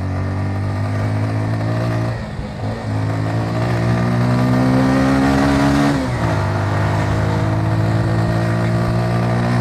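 Motorcycle engine under way. The revs dip briefly about two seconds in, then climb steadily for a few seconds. About six seconds in they drop sharply at a gear change, and the engine then runs at a steady pitch.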